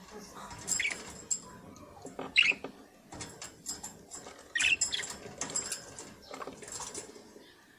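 Budgerigars giving short chirps a few times, with light clicks and scratching between the calls.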